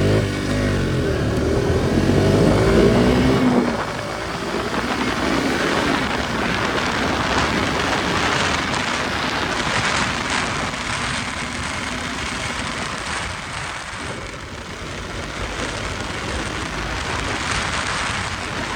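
KTM RC 200's single-cylinder engine revving up through the first few seconds as the bike pulls away, cutting off about four seconds in. After that a steady rush of wind over the microphone at speed covers the engine.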